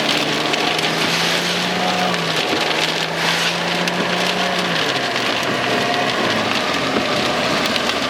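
Rain falling steadily on a car's roof and windshield, with the car's engine running low underneath; its steady hum steps up in pitch about a second in and drops back about five seconds in.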